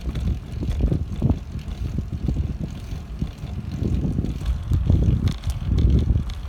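Wind buffeting the microphone during a bicycle ride: an uneven low rumble with scattered small knocks and rattles from the bike over the path.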